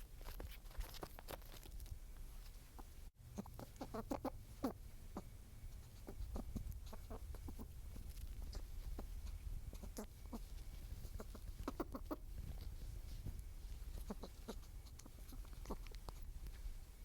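Nature recording of small animals: scattered short clucking calls and little clicks over a low steady rumble, with a brief dropout about three seconds in.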